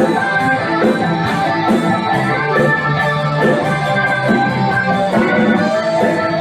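A band playing an instrumental passage with no vocals: a drum kit keeps a steady beat under held organ-like keyboard chords and guitar.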